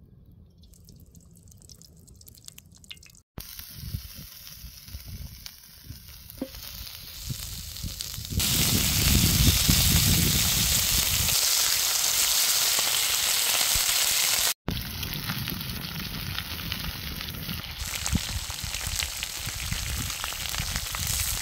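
Food frying in a pan with a steady sizzle. It grows louder partway through and is loudest for several seconds in the middle, with abrupt jumps in level at two cuts.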